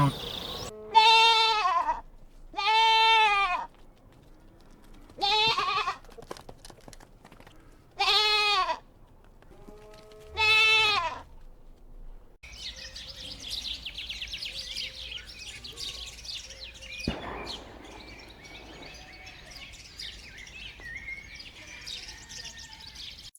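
Five separate bleats from a goat or sheep, each about a second long, with a quavering pitch. From about halfway the bleating stops and a softer background of faint ticking and chirps takes over, with one sharp knock in it.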